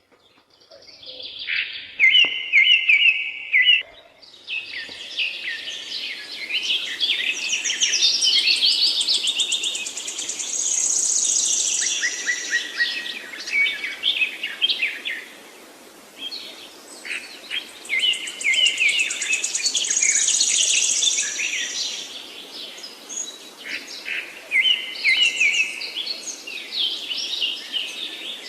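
A chorus of woodland songbirds, several singing at once in overlapping phrases, chirps and trills, over a steady background hiss. A high, fast trill comes twice, each time lasting a couple of seconds.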